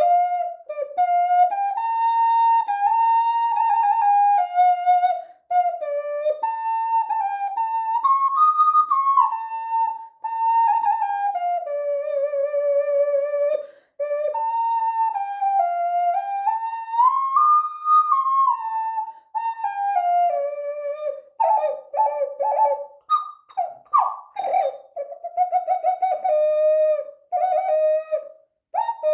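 Bird-shaped ocarina playing a slow melody in a minor pentatonic scale, stepping and sliding between held notes. About two-thirds of the way in, the playing breaks into short, quick, fluttering notes.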